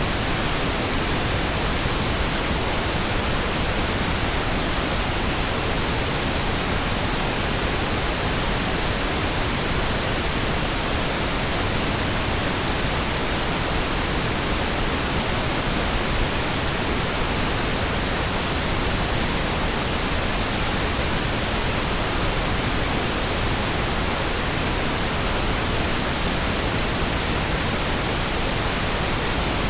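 Steady, continuous pink noise: an even hiss spread across all pitches, with no changes or breaks.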